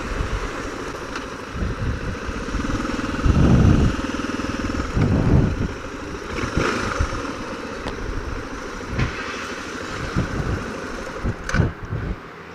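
Suzuki DR650 single-cylinder motorcycle engine running on the move, with irregular low rumbling surges over it; the sound drops off abruptly near the end.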